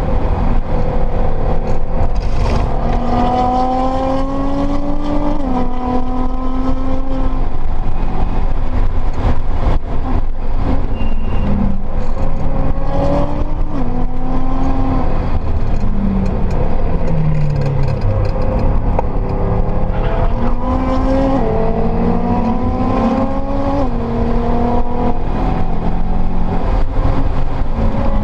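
Turbocharged EJ flat-four of a built Subaru Impreza STI heard from inside the cabin, pulling hard on track. The revs climb and drop sharply at each upshift, and fall in steps about halfway through as the car slows, then climb again.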